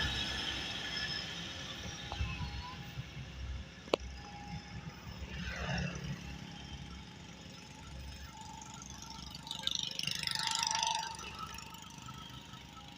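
Vehicle noise fading away, with one sharp click about four seconds in and a louder passing swell around ten to eleven seconds in.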